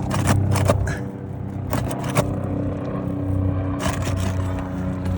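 Metal shingle-removal pry bar scraping and clicking against asphalt shingles and roofing nails as the nails are worked loose, in short irregular strokes. A steady low mechanical hum runs underneath.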